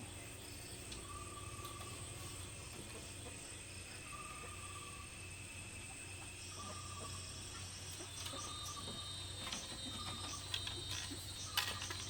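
Crickets and other insects chirping with a steady high whine, joined about halfway through by fast pulsing trills; a short call repeats every couple of seconds, and a few sharp knocks come near the end.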